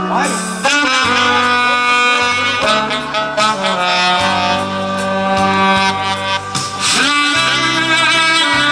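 A solo horn plays a slow melody of long held notes over a recorded backing track with a steady bass line.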